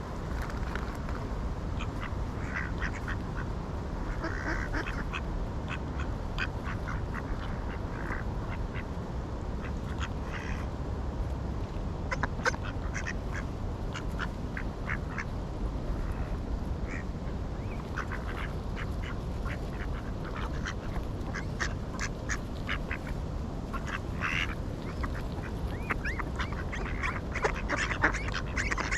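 Ducks quacking in short, scattered calls over a steady low rumble, the calls coming thicker near the end.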